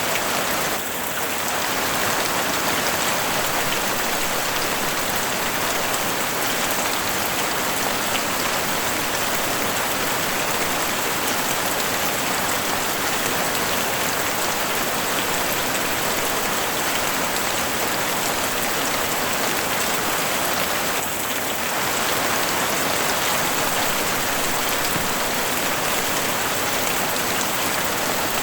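Heavy rain falling on a house roof: a steady, dense hiss of drops with no let-up.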